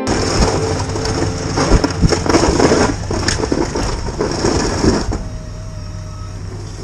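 A steady engine hum with loud crunching and crackling over it for about five seconds, after which the crunching stops and only the engine hum goes on, quieter.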